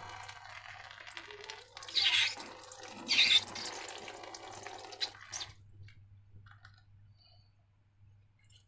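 Wet pouring and squelching of liquid slime ingredients, with two louder squelches about two and three seconds in. It stops about five seconds in, leaving only faint clicks.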